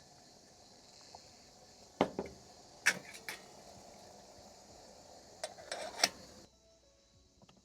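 A few sharp knocks and clatters, in two groups, over a steady high hiss that cuts off abruptly near the end.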